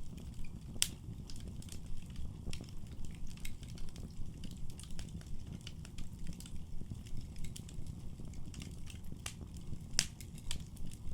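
Wood fire burning in a fireplace: a steady low rumble of flames under frequent irregular crackles and snaps, with two sharper pops about a second in and near the end.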